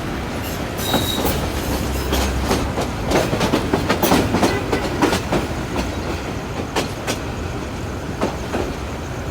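Train running, heard from aboard: a steady low rumble with irregular wheel clicks and knocks over the rail joints, densest in the middle.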